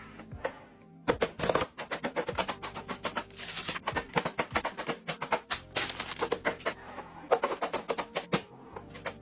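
Rapid, irregular clicks, taps and clatters of items being handled and set down while a fridge is restocked, over background music.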